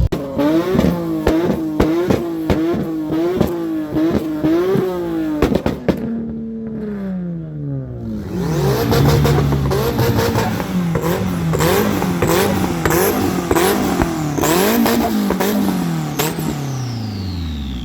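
Car engine revved over and over in quick blips, with sharp crackling pops throughout. The revs fall away twice, the second time near the end, where a high whistle also glides down.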